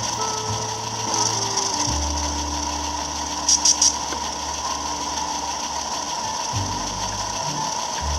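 HO-scale model locomotive's electric motor and worm gears whirring steadily as it runs under power on a test run. About three and a half seconds in there is a brief cluster of three clicks.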